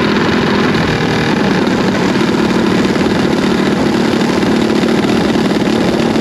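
A vehicle engine running steadily, loud and close.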